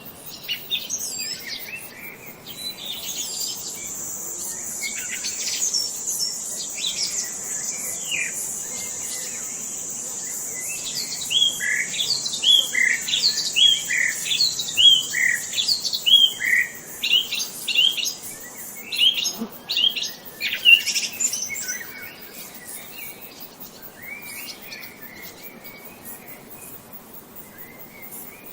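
Birds chirping and singing, with short repeated chirps that grow busier and louder through the middle, over a steady high buzz that stops about two-thirds of the way through.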